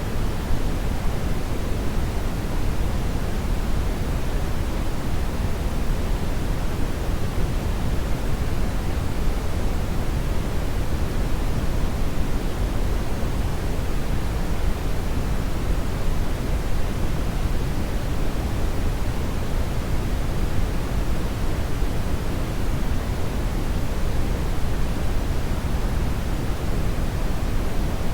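Hair dryer running steadily: an even rush of air, heaviest in the low end, with no change in level or pitch.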